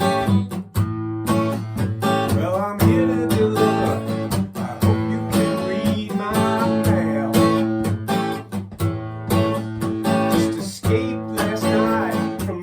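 Acoustic guitar strummed in a steady rhythm, with a melody line that bends up and down in pitch over it several times.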